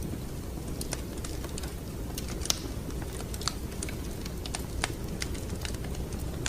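Wood fire crackling in a fireplace: irregular sharp pops and snaps over a steady low rumble of the burning fire, with the loudest pop about two and a half seconds in.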